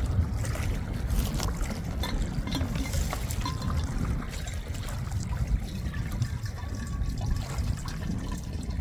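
Lake water trickling and sloshing as a pouch is filled for a Sawyer squeeze filter, with small splashy clicks and a low rumble underneath.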